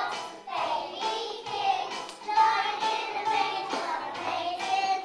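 A group of children singing a song together over musical accompaniment, holding notes and moving from note to note.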